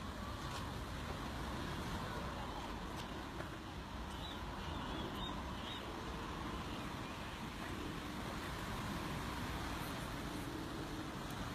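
Steady rumbling outdoor background noise, like wind on the microphone or distant traffic, with a few faint high bird chirps about four to five seconds in.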